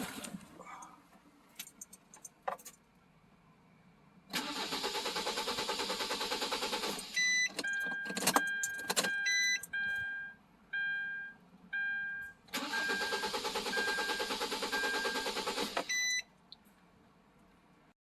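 Hyundai Santa Fe CM's R diesel engine cranking on the starter for about three seconds without firing, then a string of electronic warning beeps with a few clicks, then a second crank of about three seconds that cuts off without the engine catching. This is a no-start that the owner puts down to a dead ECU.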